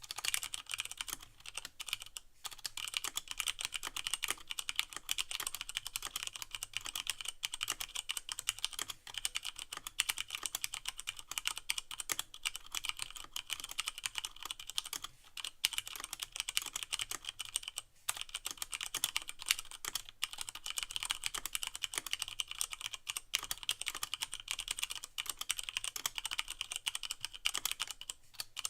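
Continuous fast typing on a Leopold FC660M mechanical keyboard with Cherry MX Brown switches and no O-rings: a dense run of key clacks, with keycaps bottoming out directly on the plate, broken by a few brief pauses.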